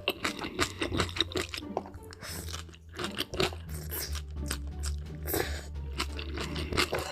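Close-miked eating: a person biting into and chewing crunchy food with many irregular crunches, over steady background music.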